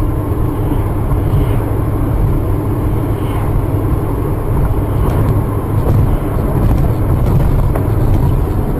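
Steady engine and road noise of a moving car, heard inside the cabin through a dash cam's microphone.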